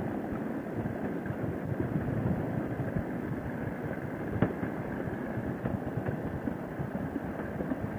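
Motorcycle engine running steadily at road speed, heard from the rider's helmet microphone with wind noise over it, and a single sharp click about halfway through.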